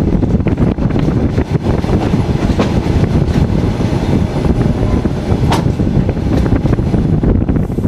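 Passenger train coach under way, heard from the coach window: a steady heavy rumble of wheels on rails, with scattered clicks of wheels over rail joints and one sharper knock about five and a half seconds in.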